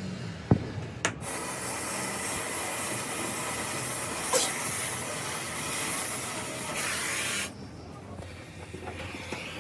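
A sharp knock, then compressed air hissing steadily from an air tool for about six seconds before cutting off suddenly.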